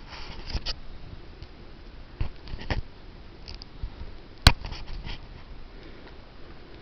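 Irregular footsteps and rustling from someone walking, with one sharp click about four and a half seconds in.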